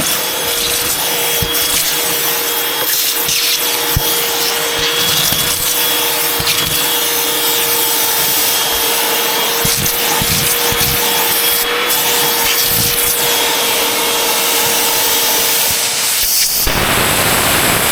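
Vacuum cleaner running steadily with a constant whine and a rushing hiss, with scattered low knocks and rubbing as it is worked over surfaces. About seventeen seconds in, the whine drops out and the rushing hiss grows fuller.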